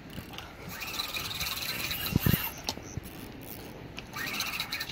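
Fishing reel drag buzzing as a heavy fish pulls line off. It runs from about a second in until almost three seconds, then again near the end, with a low thump just past two seconds.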